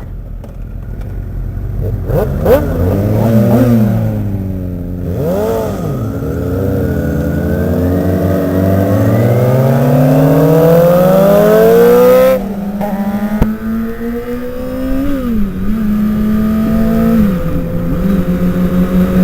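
Sport motorcycle engine under acceleration. Its pitch dips and rises, then climbs steadily for several seconds before the throttle closes abruptly about two-thirds of the way through. It then runs at a steadier pitch with a few short dips.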